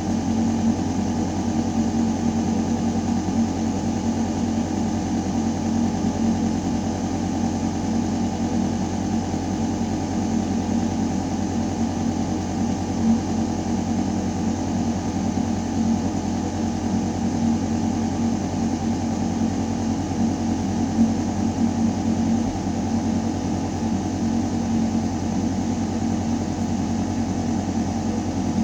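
Building ventilation system running: a steady mechanical hum with air rushing through metal ductwork, holding the same pitch and level throughout.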